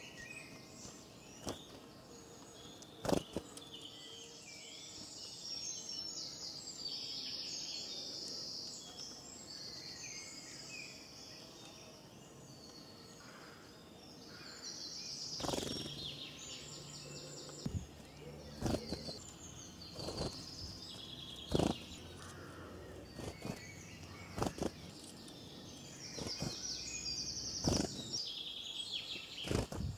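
Small birds chirping: many short, high calls over a steady outdoor background hiss, with a few sharp knocks now and then.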